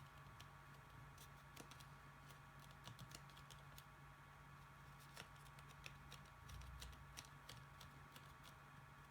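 Faint, irregular light ticks and clicks of paper cut-out pieces being handled, over a steady low hum.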